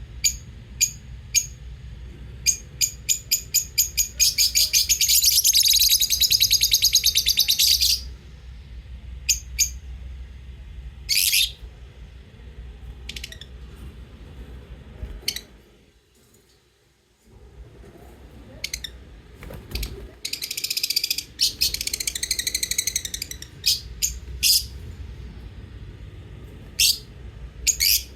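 Lovebirds chirping: sharp, high chirps in quick series, with a long rapid chattering run about five seconds in and another about twenty seconds in, and a short lull just past the middle.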